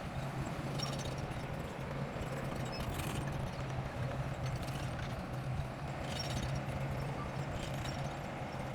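Bulldozer's diesel engine running steadily, with irregular clattering knocks from the machine every couple of seconds.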